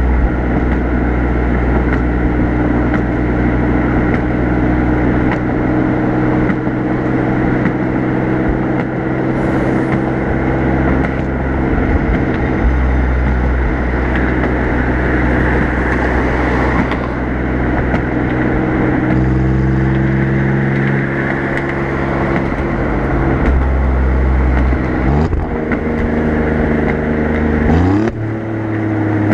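Alfa Romeo Giulia Quadrifoglio's twin-turbo V6 exhaust, heard at the rear bumper at an easy cruise along with road noise, its note steady and then rising in pitch near the end as the car accelerates.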